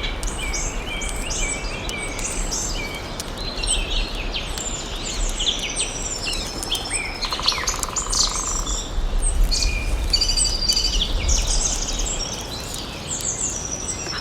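Several songbirds chirping and singing over one another in a forest, with a rapid buzzing trill for about a second midway, over a steady low background rumble.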